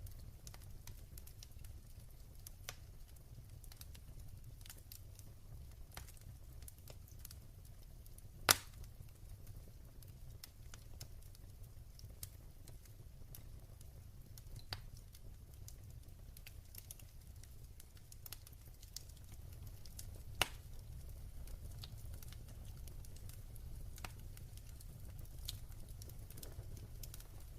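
Wood fire burning in a fireplace: a low steady rumble with scattered small crackles and two sharp pops, one about eight seconds in and one about twenty seconds in.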